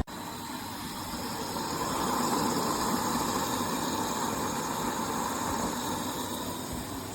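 Candy RapidO washing machine running, a steady whirring noise from the drum that swells a couple of seconds in and slowly eases. The owner puts its exaggerated inside noise down to something rubbing or out of adjustment.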